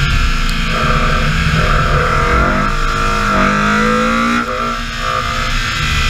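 BMW E30 M3's four-cylinder engine under load at speed, its revs climbing for a couple of seconds and then dropping sharply about four and a half seconds in.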